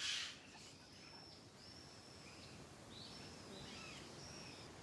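Forest birds singing: a series of thin, high whistled notes, several held about half a second and some dropping at the end, over a faint steady hiss. A brief rush of noise opens it.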